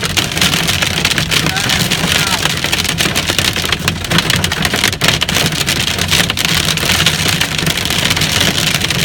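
Hailstones about an inch across pelting a roof in a dense, unbroken clatter, with a few harder single strikes standing out.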